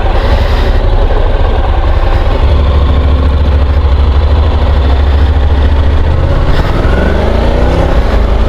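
Honda NC750 DCT motorcycle riding at speed, heard from the rider's helmet: steady, heavy wind rumble over the parallel-twin engine, whose pitch rises over the last two seconds or so.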